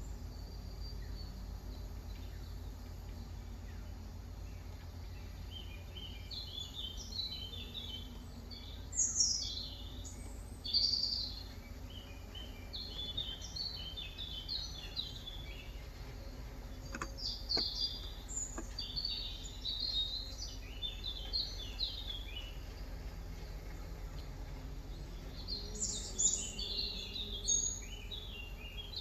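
Small birds chirping and twittering in repeated bursts of quick high notes, over a steady low hum. A few faint clicks sound about two-thirds of the way through.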